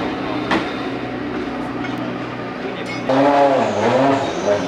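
Ferrari Challenge race car engine over steady track noise; about three seconds in one engine comes up louder, its pitch dipping and then rising again.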